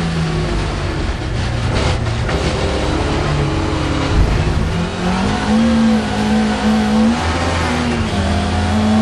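Mk2 Ford Escort rally car's engine heard from inside the cabin, driven hard: the engine note drops, climbs and holds high, with short dips as the throttle is lifted. A brief low thump about four seconds in.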